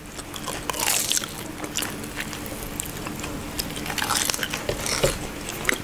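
Biting into and chewing a chocolate- and sliced-almond-coated mozzarella corn dog close to the microphone, with scattered crisp clicks from the mouth and the crust over a faint steady hum.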